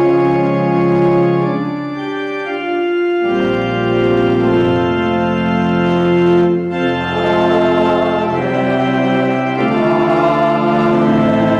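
Organ playing music of sustained held chords, the chord changing and a deep bass note coming in about three seconds in.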